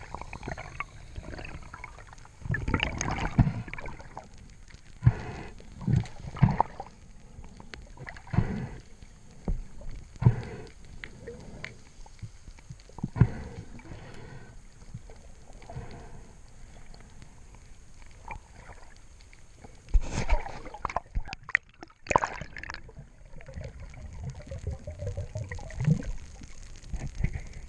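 Water sloshing and gurgling around the camera, broken by irregular knocks and splashy surges.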